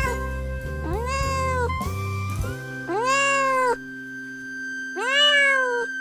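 Domestic cat meowing three times, about two seconds apart, each meow a drawn-out call that rises and then falls in pitch. Background music with held notes runs underneath.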